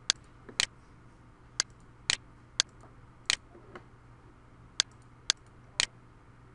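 Computer mouse and keyboard clicks: about ten sharp, irregular clicks, some in quick pairs, over a faint steady low hum.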